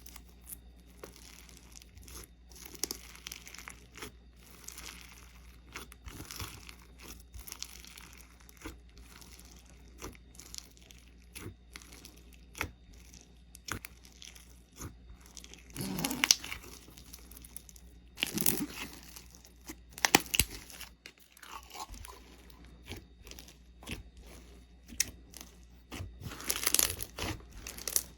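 Slime being worked by hand, with a steady run of crackly crunches, tearing and small pops, and louder crunches a little past the middle and again near the end.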